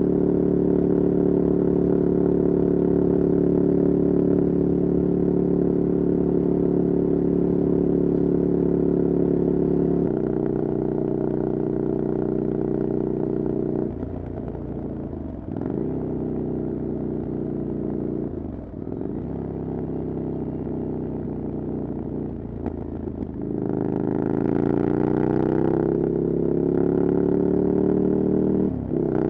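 Ducati Desert Sled's air-cooled twin running through a LeoVince exhaust with no dB killer, heard while riding. It holds steady revs at first, drops to a lower note about ten seconds in, dips and picks up several times through the middle, then climbs in pitch under acceleration near the end, with a brief dip just before the end.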